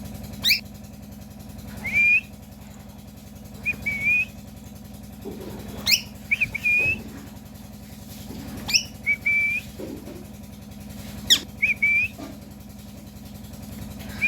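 Pet parrot whistling: four quick upward-swooping whistles, each followed by one or two short, slightly rising chirps, roughly every three seconds. A steady low hum runs underneath.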